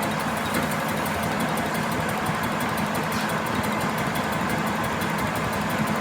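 A machine running steadily, like a motor under a constant load, with a faint, fast, regular ticking over it.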